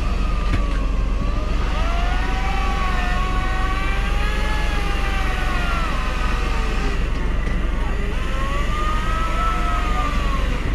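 Fishing boat's engine running steadily with a low drone, with faint wavering tones drifting above it.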